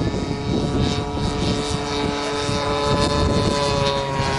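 Propeller-driven RC model airplane engines running in flight, a steady engine drone whose pitch drifts slightly lower, with a second, lower engine note coming in near the end.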